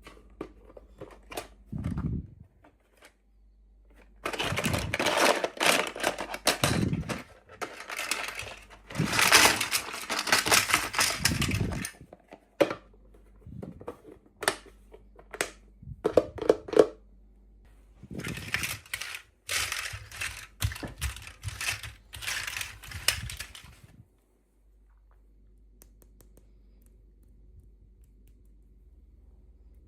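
Plastic toy packaging being handled and opened: stretches of crinkling and rustling mixed with small clicks and taps of plastic pieces. It goes quiet for the last several seconds.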